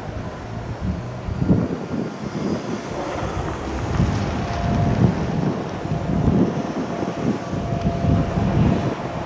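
Narrow-gauge electric train with nose-suspended traction motors running, a rough, uneven rumble that surges irregularly, with a faint steady whine joining about halfway through.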